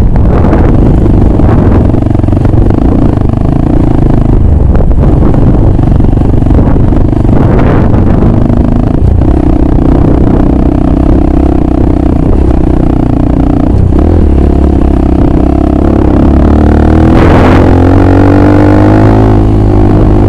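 Red trail motorcycle's engine running steadily under way on a dirt track. Its note drops a couple of times mid-way, then rises over the last few seconds as the bike speeds up.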